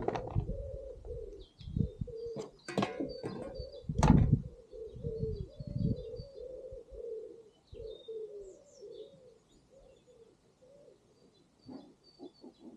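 A pigeon cooing over and over, with small birds chirping high above it. Several sharp knocks and clunks come in the first few seconds, then fade out.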